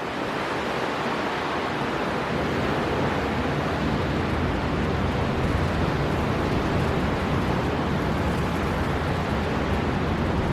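Wind storm blowing in off the sea with surf, heard as a steady, even rush of noise.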